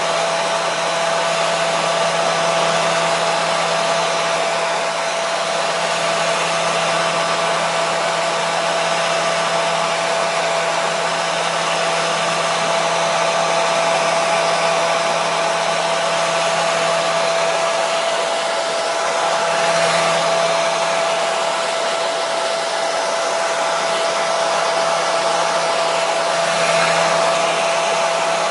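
Hair dryer running steadily: a continuous airy hiss from the fan with a steady motor whine.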